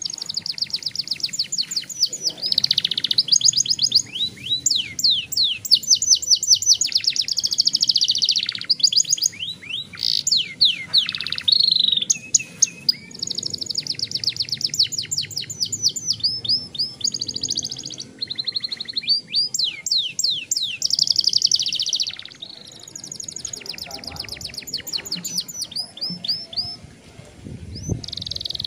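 Young domestic canary singing long rolling trills: fast runs of repeated high notes, with a few short pauses between phrases.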